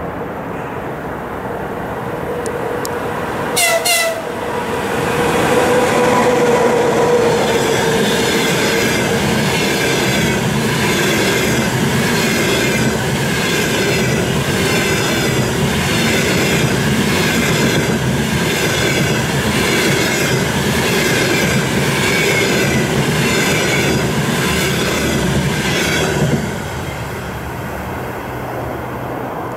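EP20 electric locomotive gives a short horn blast about four seconds in as it approaches. A whine follows, falling in pitch as the locomotive passes, and then the steady rumble and regular wheel clatter of double-deck passenger cars going by at speed. The clatter stops suddenly near the end as the last car passes.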